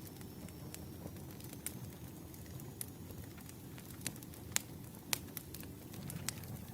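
Campfire crackling: a low, steady rumble of burning with sharp pops and snaps at uneven intervals, a few louder ones in the second half.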